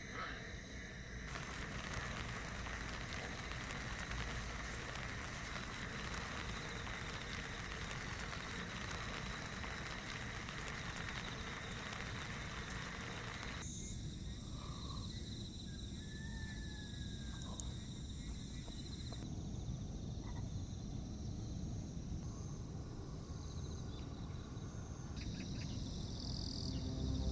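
Outdoor nature ambience: a steady hiss with insects trilling in high, steady tones. The background changes abruptly a few times, about a second in, about halfway through and again near the end, where one ambience is cut to the next.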